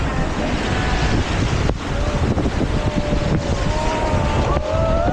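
Wind buffeting the microphone, with a heavy low rumble. From about three seconds in, a wavering pitched tone joins it, bending up and down in pitch.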